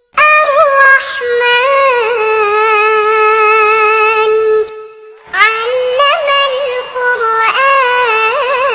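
A young girl reciting the Quran in a melodic chant, holding long notes with ornamental turns. She breaks off briefly about five seconds in, then resumes.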